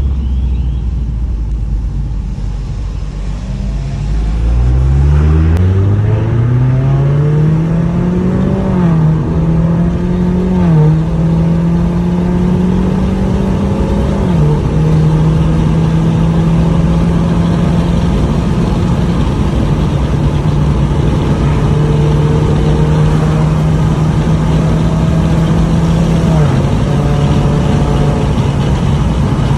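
Proton Suprima S's 1.6-litre turbocharged engine idling, then accelerating hard from about four seconds in: the engine note climbs, then drops sharply at several shifts of the automatic gearbox before rising or holding steady again.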